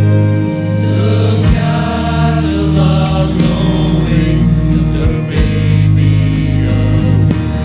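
Music: a choir singing over sustained instrumental accompaniment.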